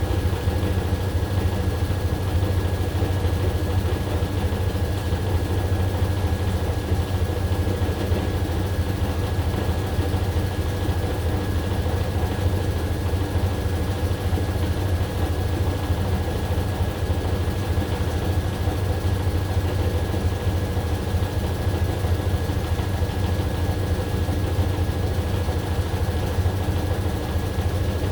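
AQUA AQW-DX12M drum washing machine spinning its load at a steady high speed: a constant low hum with a thin, even whine above it.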